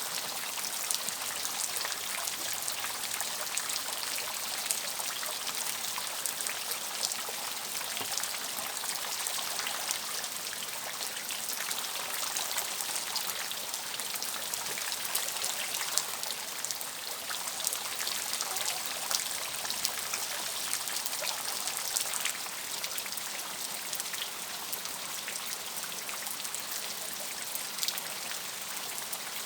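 Steady rain falling, with many individual drops pattering close by and some trickling water.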